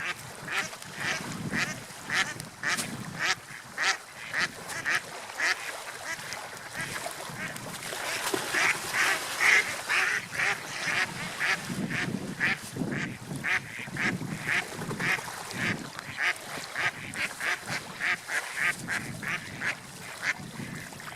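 Seagulls calling over and over in short, rapid cries, several a second and overlapping, over a low rushing background.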